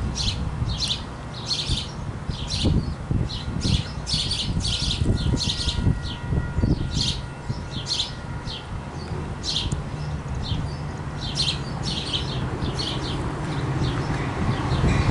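Small birds chirping in quick repeated calls over the low rumble of an approaching Metra diesel locomotive and bilevel commuter train. The rumble grows louder near the end.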